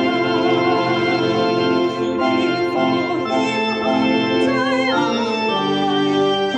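Organ playing a traditional hymn tune in held chords that change every second or so.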